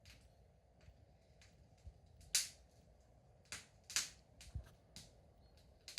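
Wood fire in a fireplace crackling: irregular sharp pops and snaps over a faint low rumble, with the loudest snap a little over two seconds in and a quick run of pops around four seconds.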